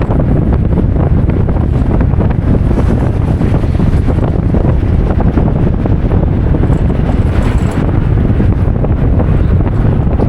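Wind buffeting the microphone: a loud, steady rumble with no breaks.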